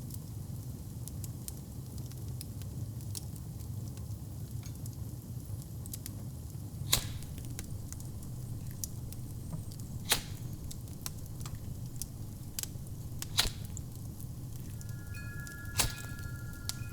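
Wood fire burning in a fireplace: a steady low rumble with scattered small crackles and four sharper pops spaced a few seconds apart. Near the end a wind chime starts ringing with a sustained, clear tone.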